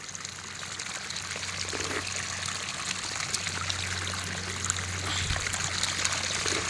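A newly formed rain-fed stream running and trickling over rocks, a steady flow that grows a little louder toward the end.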